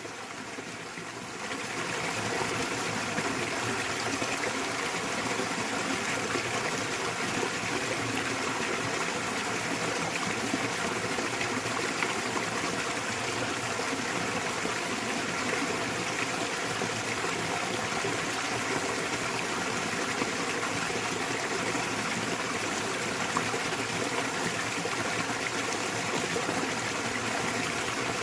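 Small waterfall pouring into a mountain stream: a steady, even rush of water. It swells to full level over the first two seconds.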